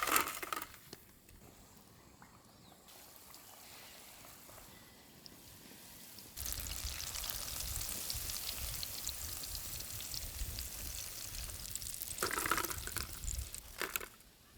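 Hot oil sizzling and crackling as chicken meatballs deep-fry. It starts abruptly about six seconds in after a quiet stretch.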